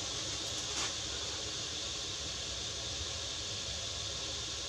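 Maxxair Maxxfan Deluxe roof vent fan running at 50% speed, drawing air out of the van: a steady, quiet rush of air.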